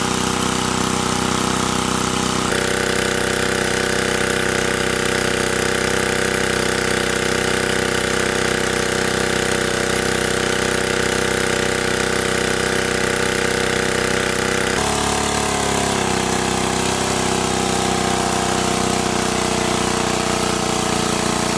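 A steady engine-like mechanical drone made of several even tones. About two and a half seconds in it shifts abruptly. About fifteen seconds in it drops and then slides slowly lower in pitch.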